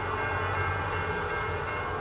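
Norfolk Southern freight train running through at speed behind a GE B32-8 and two EMD SD40-2 diesel locomotives: a steady diesel engine drone with a constant mix of higher tones over it.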